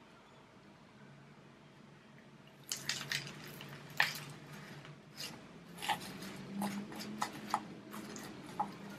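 Gritty pumice and lava rock potting mix being handled around a cactus cutting in a pot: scattered small clicks and crunches, starting a few seconds in and going on irregularly.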